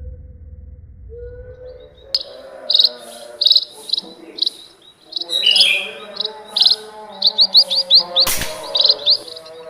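Small birds chirping in quick, repeated high calls, starting about two seconds in. A single sharp crack about eight seconds in, an air-rifle shot.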